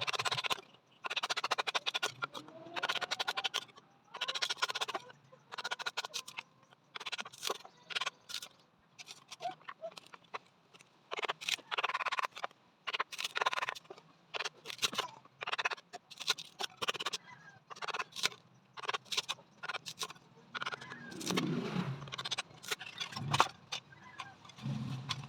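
A large knife chopping and splitting bamboo into sticks: a long run of sharp, irregular strikes and cracks.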